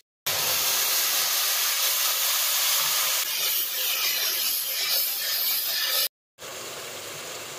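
Tomato paste sizzling hard in hot ghee with fried onions as it hits the pan and is stirred: a loud, steady hiss. It drops out briefly just after the start and again about six seconds in, then carries on quieter.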